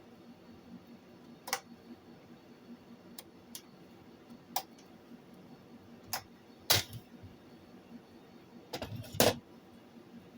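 Scattered sharp clicks and small knocks of hand work on the answering machine's telephone wire connections, the loudest about two-thirds of the way through and a quick cluster of several near the end, over a faint low steady hum.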